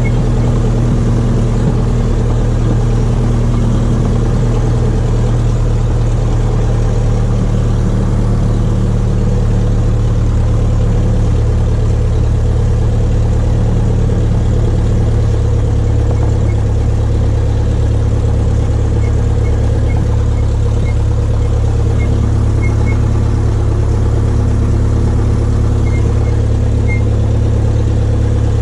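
An old Cessna's piston aircraft engine running steadily at warm-up rpm shortly after a cold start. Its thick cold oil is bringing the oil pressure up only slowly.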